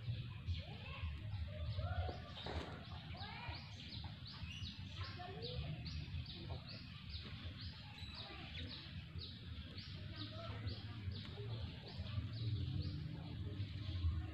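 A bird chirping over and over, short high chirps about three a second without a break, over a steady low rumble.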